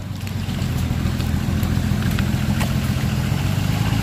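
Suzuki Samurai's engine running steadily at low revs, a little louder after the first second, with a few faint clicks over it.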